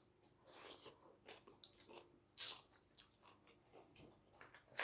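Soft chewing and eating sounds of a person at a meal, with one sharp crunch of a crisp bite about two and a half seconds in.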